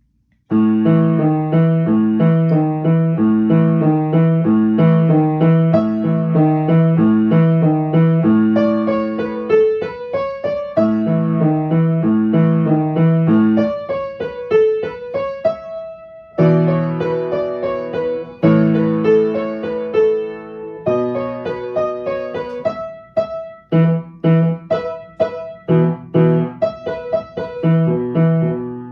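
A piano plays a beginner-level piece, beginning about half a second in. A repeating chugging pattern of low notes runs under a melody, and quick rising runs of notes come twice partway through.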